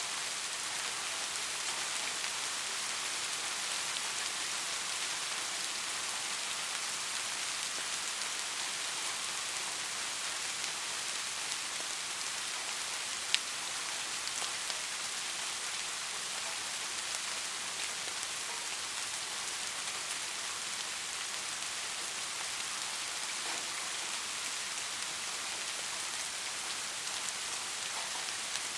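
Steady rain falling, an even hiss with scattered drop ticks and one sharper louder drip about halfway through.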